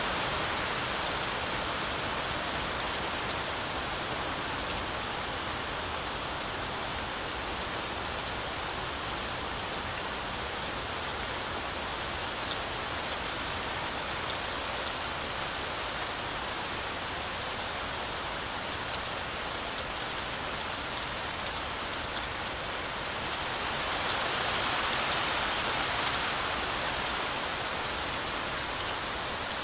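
Heavy rain falling steadily through a forest canopy, a dense hiss with scattered individual drop ticks. It swells briefly a little louder about 24 seconds in.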